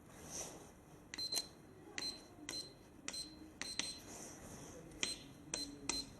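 Buttons on an electronic keypad pressed one after another, about ten presses at an uneven pace, each with a click and a short high beep, like a code being typed in.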